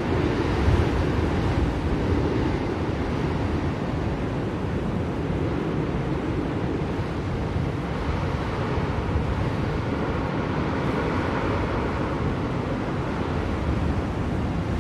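Blizzard wind: a steady, dense rushing noise, heaviest in the low range, that swells slightly in gusts near the start and again later.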